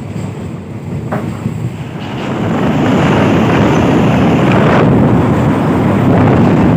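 Passenger train running, a steady rumble of the carriage and track heard from on board, which swells to a louder level about two and a half seconds in and holds there.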